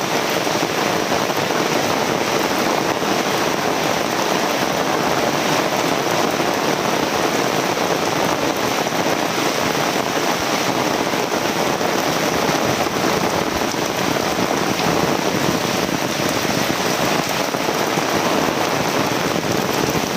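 Heavy rain falling and hitting surfaces, a steady dense hiss without thunder.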